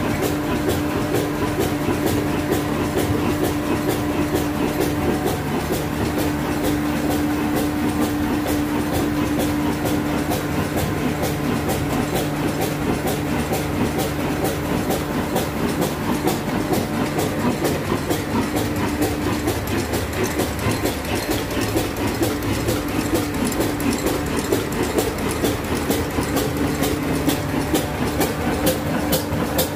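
Old diesel engine running steadily, its firing strokes making an even, rhythmic beat over a steady low hum.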